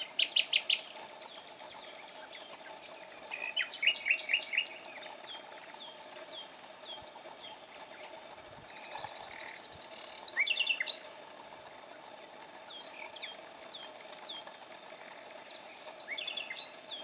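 Songbirds singing: loud phrases of quick repeated notes come three times, about a second in, around four seconds and near eleven seconds, while another bird keeps up short, high falling chirps throughout. A faint steady hum lies underneath.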